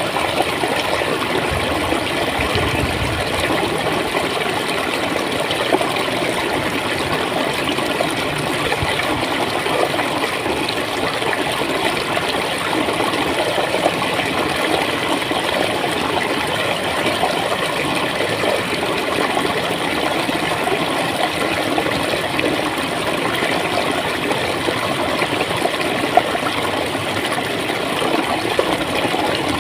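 Water flowing and gurgling, a steady even rush with small splashes scattered through it.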